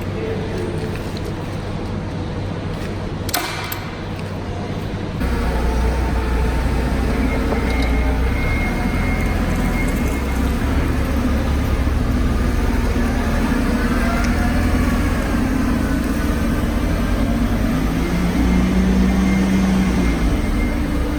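Steady machinery noise running in a cherry packing shed, with a single sharp click about three seconds in. The low hum gets louder at about five seconds.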